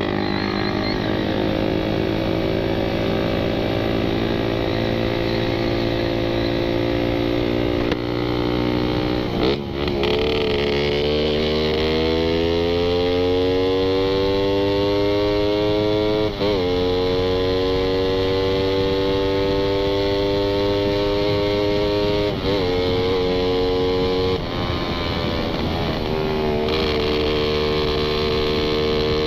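Suzuki Satria FU 150's single-cylinder four-stroke engine through a gutted (bobokan) stock CKD silencer, heard while riding and accelerating. The pitch climbs and holds, broken by several brief dips as gears change, rising again after each.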